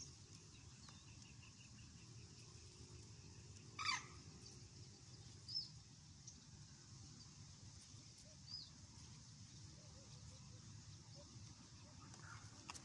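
Quiet marsh-edge ambience with a faint steady hiss. A single short, loud bird call comes about four seconds in, followed by two brief high chirps a few seconds apart.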